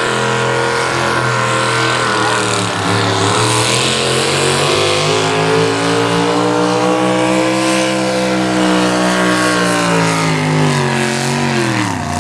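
Naturally aspirated two-wheel-drive pulling truck's big-block engine running at full throttle under load during a pull. It is loud and steady, its pitch sagging about three seconds in, climbing again, then falling away near the end as the pull winds down.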